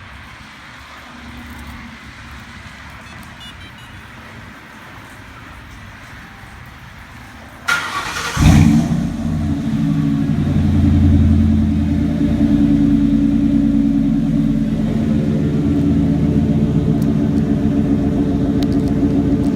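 A 2001 Ford Crown Victoria's 4.6-litre V8 is cranked by the starter about eight seconds in. It catches with a loud flare, then settles into a steady idle through freshly fitted Thrush welded mufflers. Before the start there is only a faint low hum.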